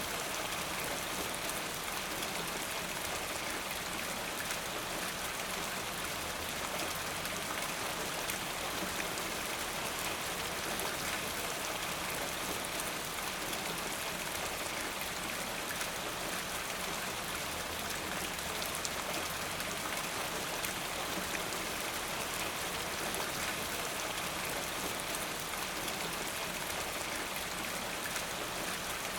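Steady rain falling, an even hiss of raindrops with fine crackle and pattering on surfaces.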